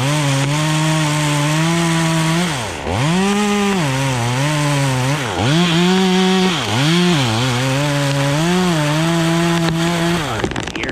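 Chainsaw running at high revs while cutting wood. The engine pitch dips sharply several times as the chain bogs in the cut and recovers each time. It stops about ten seconds in.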